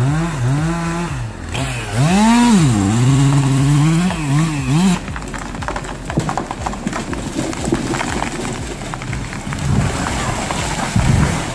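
Two-stroke chainsaw running with its pitch dropping and climbing several times as it bogs and revs in the cut. After about five seconds it gives way to a loud stretch of noise full of sharp cracks and rustling.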